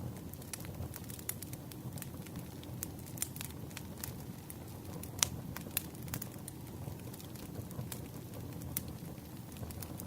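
Campfire burning: a steady low rumble of flames with irregular sharp crackles and pops from the burning wood, one louder pop about halfway through.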